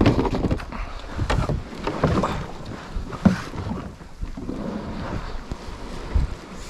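Irregular knocks and water splashes from an Advanced Anglers 120 plastic fishing kayak being boarded in shallow river water, with wind rumbling on the microphone.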